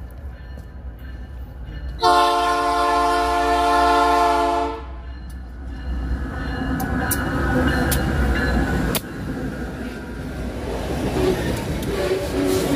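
Diesel freight locomotive sounds one long blast on its multi-note air horn about two seconds in, over the low rumble of its engine as it approaches. The locomotive then passes and hopper wagons roll by, their wheels clicking over the rail joints.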